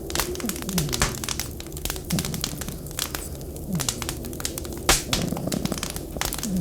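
Wood fire crackling and popping in a stove, with many sharp snaps and one louder pop about five seconds in. Underneath, a few short, low falling tones come and go.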